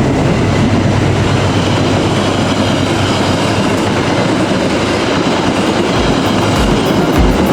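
Passenger train running past at speed, a steady loud rush of wheel and rail noise. A low thudding beat of music comes in near the end.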